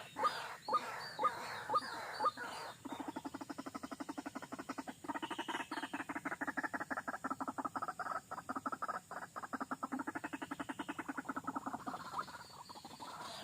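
White-breasted waterhen calling: a few repeated calls about twice a second, then a long, fast, rattling croak that runs on for several seconds before fading near the end.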